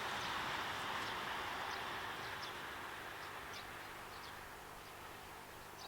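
Train running past and slowly fading into the distance, with small birds chirping over it.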